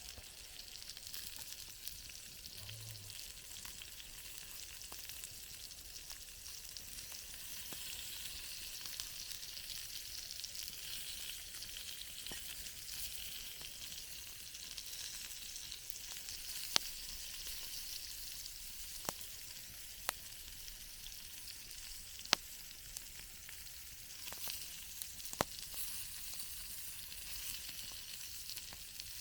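Campfire burning with a steady hiss and crackle, broken by a handful of sharp pops.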